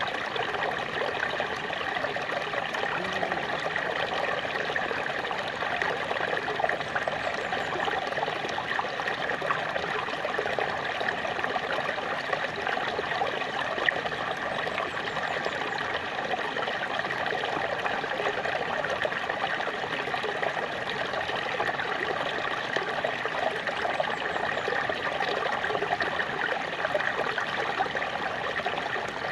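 Small waterfall splashing and trickling steadily, a continuous even rush of falling water.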